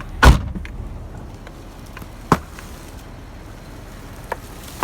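A loud thump just after the start and a sharper knock about two seconds later, over a low steady rumble.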